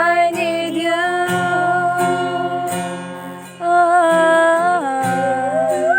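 Singing voice holding long drawn-out notes over strummed acoustic guitar, the sung line stepping down to a lower note near the end.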